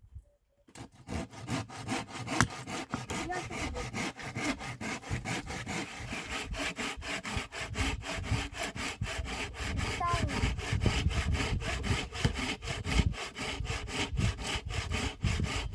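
Hand saw cutting through wood for firewood, with quick, even back-and-forth strokes about four to five a second, starting just under a second in.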